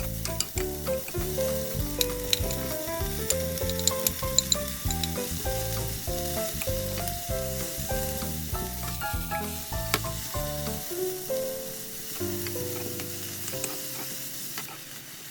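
Food sizzling as it fries in a pan, with a few sharp clicks, under background music with a steady beat whose bass drops out about eleven seconds in.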